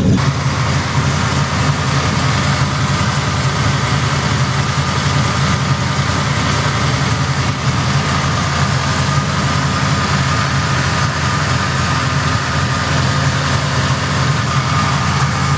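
Naturally aspirated 572 big-block V8 idling steadily through dual 3-inch exhaust with headers.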